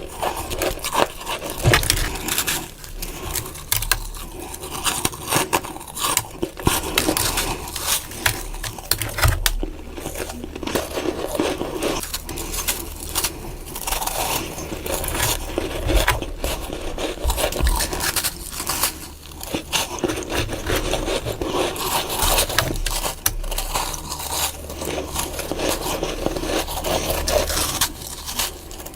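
Close-up crunching of mouthfuls of freezer frost being bitten and chewed, a dense run of crisp crackles and crunches, sped up.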